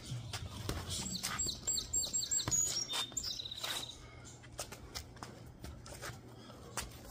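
A songbird sings a run of quick, high chirps and then a short trill. Under it are scattered sharp taps and thuds from sparring footwork on paving stones and boxing gloves.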